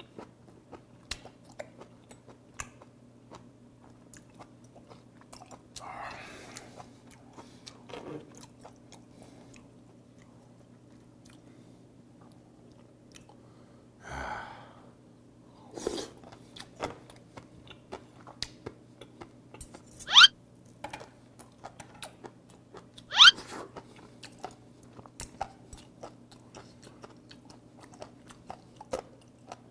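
Close-miked chewing of raw rock sea squirt: soft wet chewing with many small clicks. Two short, louder mouth sounds rising in pitch come about three seconds apart past the middle.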